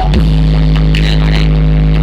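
Loud, steady deep bass note held without change, played through a Blizzard Audio 'sound horeg' carnival sound system.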